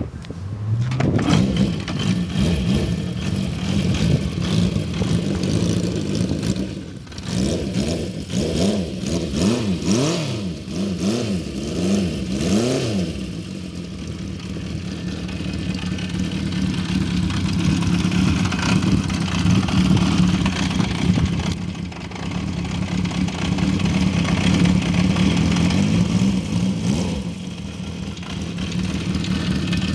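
1972 Honda CB350 Four's inline four-cylinder engine starting up near the beginning and settling into a steady idle. About a third of the way through it is revved with a quick run of throttle blips, rising and falling several times, then it idles steadily again.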